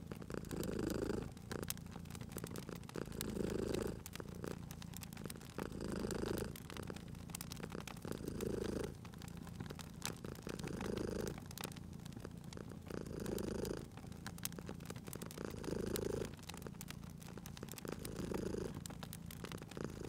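Domestic cat purring, the purr swelling and easing in an even rhythm about every two and a half seconds with its breathing, over the sharp pops and crackles of a wood fire.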